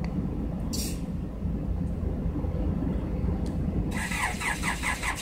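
Third-generation Honda Accord's engine being cranked by its remote starter, heard from inside another car. About four seconds in, the starter begins a rapid rhythmic chugging of roughly six beats a second: a cold crank in the snow.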